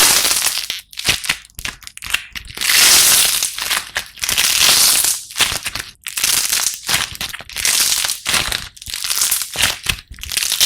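Slime being squeezed and pressed by hand, crackling and crunching in irregular bursts with brief pauses between them.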